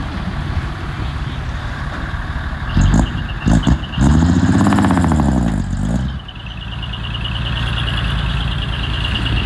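Diesel engine of earthmoving machinery running, with a couple of knocks, then revving up and back down for about two seconds, four seconds in. After that a fast-pulsing high chirp sets in over the engine.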